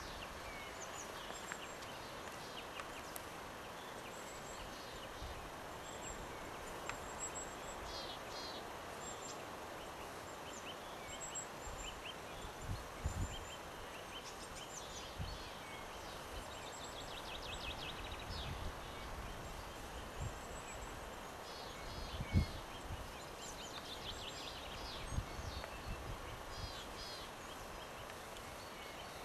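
Small birds singing in woodland: many short chirps and quick trills of repeated notes over a steady background hiss. A few low thumps break in, the loudest about three quarters of the way through.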